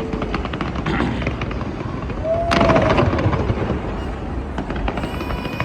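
Fireworks going off in a run of bangs and crackles over a dense crowd's voices, with one sharp bang about two and a half seconds in the loudest.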